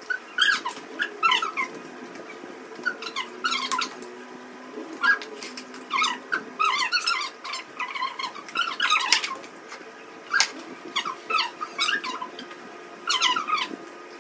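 Close-miked eating sounds: chewing and wet mouth clicks with many short squeaky chirps, coming in quick irregular bursts.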